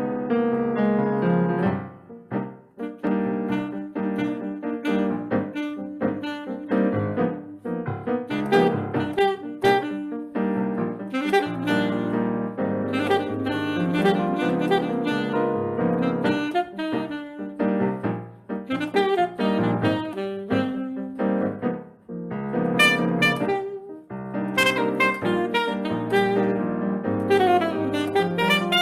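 Saxophone playing fast, running melodic lines over piano accompaniment in a live Brazilian jazz performance.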